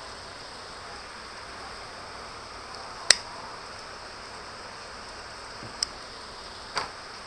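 Steady rain hiss with three sharp taps: a loud one about three seconds in and two smaller ones near the end.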